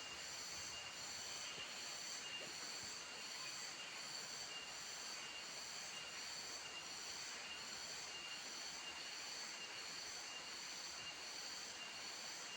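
Steady hiss of rain falling, with a high-pitched tone pulsing over it at an even rhythm.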